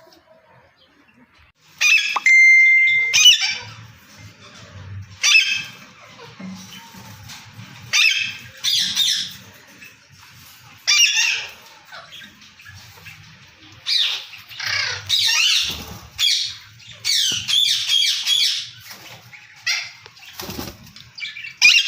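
Indian ringneck parakeet giving harsh, high squawking calls in repeated short bouts, with one brief steady whistled note near the start.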